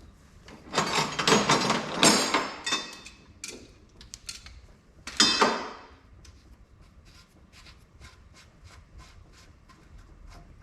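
Two loud, rushing bursts of noise, then a regular ticking about three times a second, typical of hydraulic fluid draining and then dripping into a bucket under the tractor.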